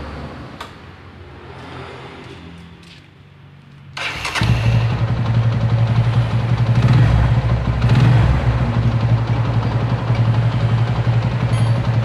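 Motorcycle engine starting about four seconds in, then running steadily at idle, after a few faint clicks.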